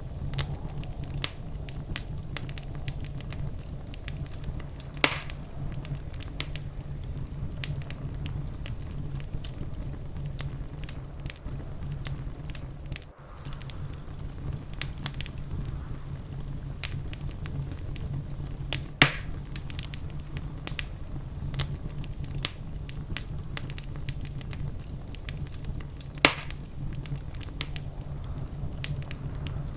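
Wood fire crackling in a fireplace: a steady low rumble of flames under a constant scatter of small crackles, with three louder pops about 5, 19 and 26 seconds in.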